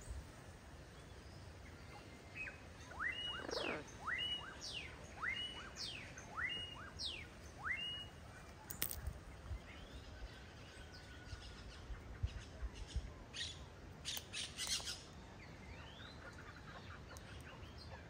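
A bird whistling a run of about six clear notes, each sliding up and paired with a quick falling note, followed by a few short chirps and clicks.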